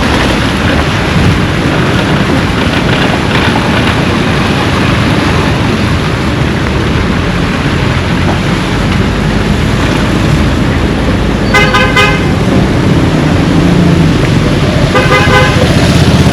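A vehicle horn sounds briefly twice, about two thirds of the way in and again near the end, over a loud, steady rush of noise.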